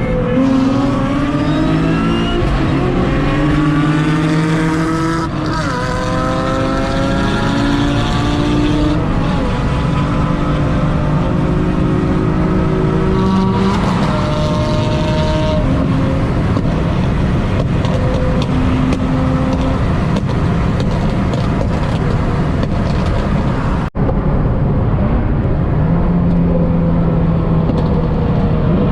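Car engines running hard on the road, their pitch climbing and falling again and again as they accelerate and shift gears. The sound drops out for a moment about 24 seconds in.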